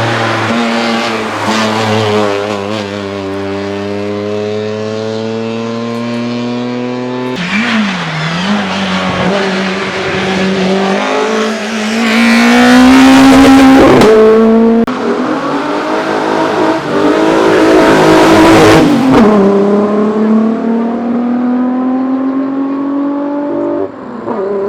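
Racing car engines accelerating hard under full throttle, the pitch climbing steadily and dropping back at each gear change. There is an abrupt change in the sound about seven seconds in, and it is loudest around the middle and again a little later.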